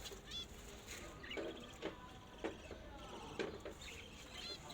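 Small caged pet birds chirping in short calls, with a few sharp clicks or knocks in between.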